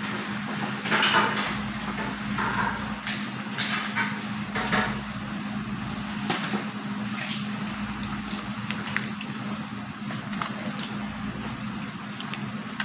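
Diced chicken and onion sizzling in a frying pan, over a steady low hum. A few light knocks and scrapes come in the first five seconds.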